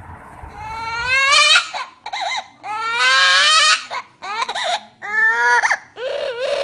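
A parrot mimicking a baby crying: a run of about five loud wailing cries that rise and bend in pitch.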